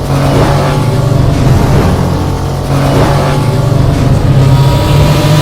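Loud car engine running and revving.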